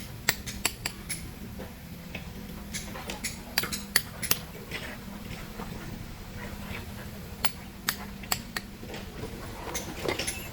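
Irregular sharp metallic taps and clinks of hand tools striking stone, over a steady low engine hum.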